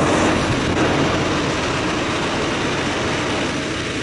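Machinery running in a ship's engine room: a loud, steady mechanical din with a low rumble underneath.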